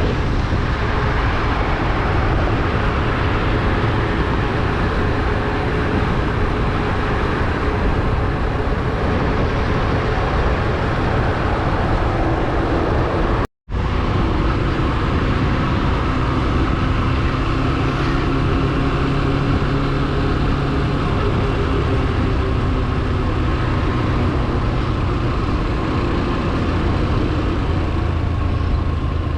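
Motorcycle engine running at road speed under heavy wind rush on the microphone, its pitch drifting slowly with the throttle. The sound drops out for a split second about thirteen seconds in.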